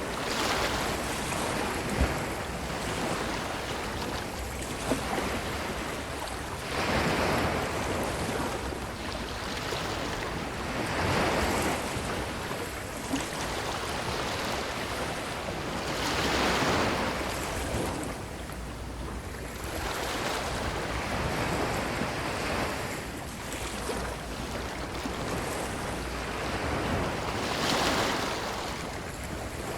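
Ocean waves washing onto a beach, a steady wash that swells and falls back every few seconds. A few brief sharp clicks are heard within it.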